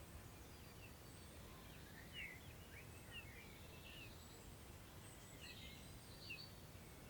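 Faint birdsong from several birds: scattered short chirps and thin high notes, over a low, steady rumble of wind.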